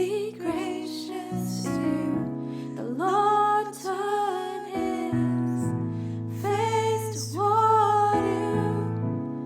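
Worship song: a female voice singing held notes over piano or keyboard chords.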